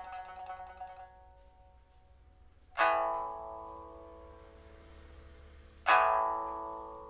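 Redwood pipa, freshly fitted with a new soundboard and frets, with a steel first string and copper-wound lower strings: a rapidly repeated note fades out about a second in, then two struck chords about three seconds apart each ring out and die away.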